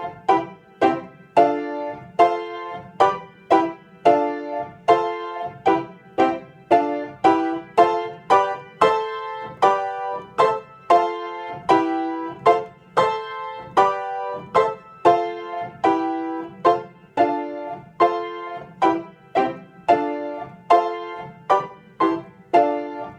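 Piano playing the primo (upper) part of a piano duet on its own: a steady beat of struck chords in the middle and upper register, a little under two a second.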